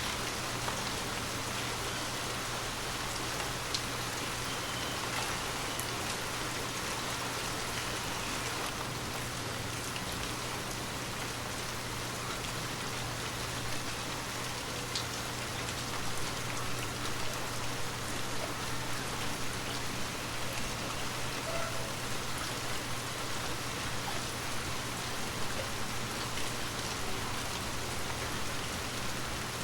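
Gentle rain falling steadily, a continuous patter with scattered individual drops ticking.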